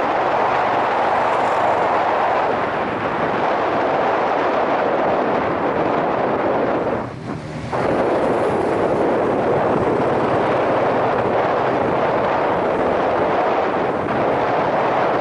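Yamaha SRX400 motorcycle on the move: steady wind rush over a helmet-mounted microphone, with the faint steady note of its single-cylinder engine underneath. The rush dips briefly about seven seconds in.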